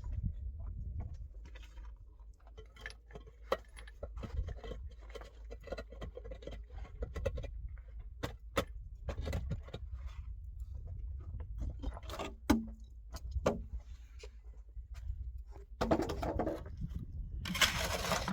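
Irregular small clicks and knocks, like objects being handled, over a steady low rumble, with a brief loud scraping rush near the end.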